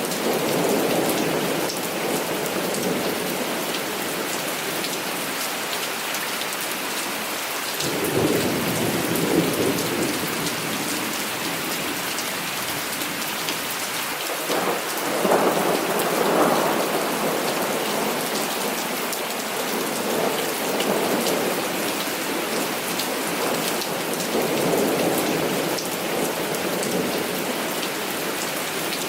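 Heavy rain falling steadily, with rolls of thunder rumbling in several times: near the start, about eight seconds in, loudest around fifteen seconds, and again near the end.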